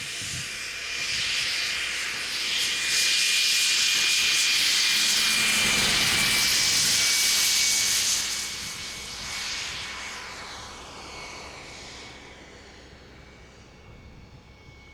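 Turbine engines of a large radio-controlled model jet airliner at high power on takeoff: a steady high whine over a rushing roar that swells, holds loud for about five seconds, then fades away as the model climbs off.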